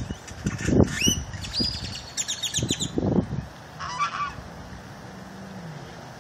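Birds calling: a rising whistle about a second in, then quick runs of high chirps and a short call near the middle. Several loud low bursts come in among them, and a faint low hum from the car dips slightly near the end.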